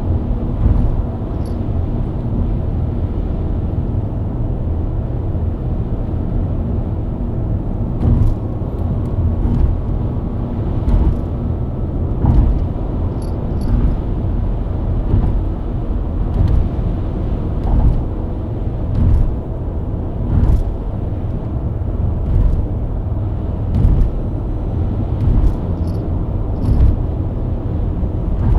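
BMW E90 323i's inline-six engine and tyres at steady highway cruising speed, a low rumble, with short thumps every second or two.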